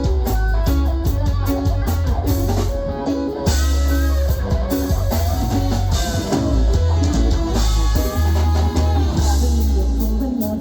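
Rock band playing an instrumental passage: guitar over a heavy bass line and drum kit.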